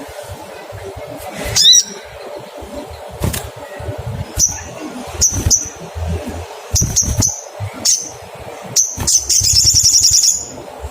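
Olive-backed sunbird calling: a series of short, sharp, high 'cuit cuit' chirps, then a loud rapid trill near the end.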